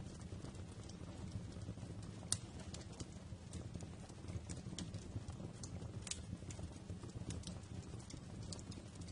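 Wood fire crackling: irregular sharp pops and snaps over a low, steady rumble of burning logs. The sharpest pop comes a little over two seconds in.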